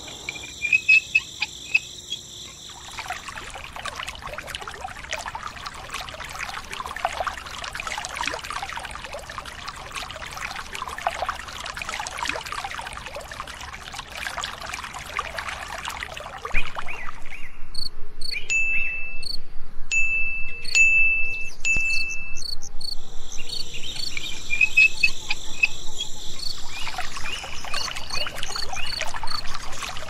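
A thin stream of water from a miniature DIY electric water pump pouring and trickling into a shallow pit in sand, growing louder about halfway through. Behind it a steady chirping, with short, high, clear tones in the second half.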